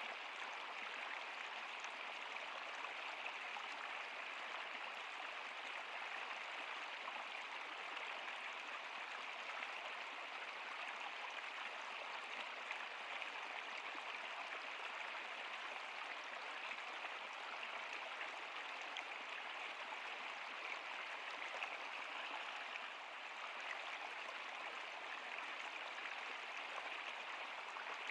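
Stream water running steadily over rocks, an even rushing and babbling.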